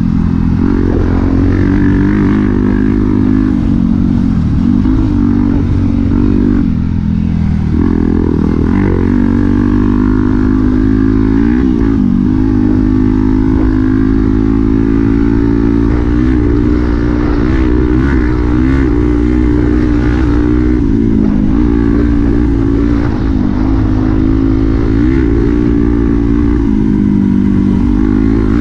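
Dirt bike engine running under a rider on a trail, its pitch rising and falling again and again as the throttle opens and closes.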